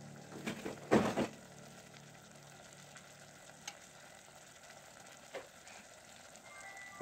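Chopped tomatoes frying in oil in a pot, a faint steady sizzle with a brief louder burst about a second in and a few small pops later.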